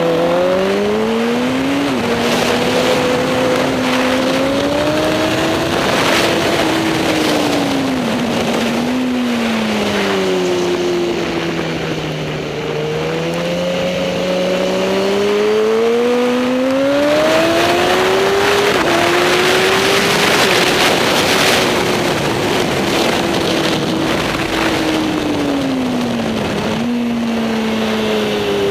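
Racing superbike engine running hard for the whole stretch. Its pitch climbs under acceleration and drops sharply at each upshift, about two seconds in and again near nineteen seconds, then slides down slowly as the bike slows, before climbing again.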